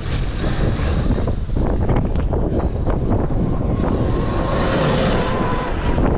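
Strong wind buffeting the microphone, with the faint steady whine of a Traxxas X-Maxx RC car's electric motor for a second or two past the middle.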